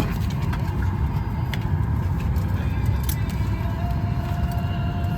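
Steady low rumble of a parked Boeing 737 MAX 8 cabin, its air conditioning running, with scattered light clicks and a faint steady tone entering near the end.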